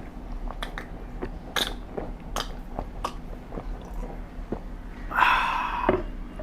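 Close-up sounds of a person eating fried chicken and rice: sharp bites and wet chewing clicks, with a louder, longer crunch or slurp about five seconds in.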